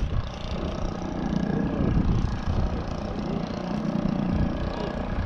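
Wind buffeting the microphone, with the faint steady drone of a model aircraft engine behind it.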